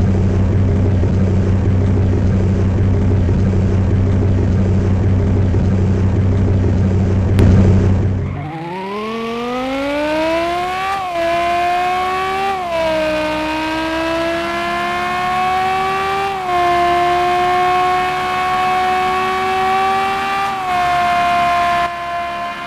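Old German V10 engine idling with a steady low drone. About eight seconds in, the sound abruptly gives way to a clean, high whine that climbs in pitch over a couple of seconds and then holds, rising and falling slightly a few times.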